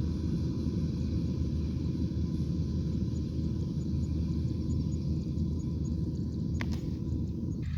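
Combine harvester engine running steadily under load, a dense low rumble, with one sharp click about six and a half seconds in.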